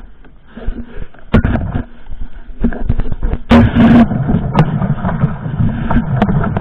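An engine running, with a low hum that grows stronger about halfway through, under loud irregular knocks and clatter.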